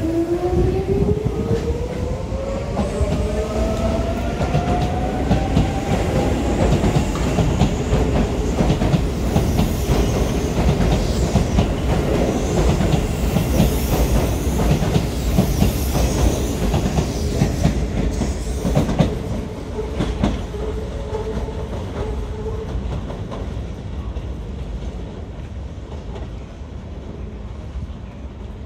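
Keisei 3400 series electric train pulling out of the station: its traction motors give a whine that rises steadily in pitch over the first several seconds as it accelerates, with wheels clattering over the rail joints. The sound grows fainter over the last few seconds as the train moves away.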